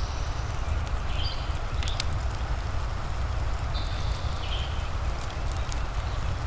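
Fireplace and rain ambience: a steady low rumble and hiss with scattered sharp crackles from the fire. A few times, short high chirps that step down in pitch sound over it, from a bird or other small animal.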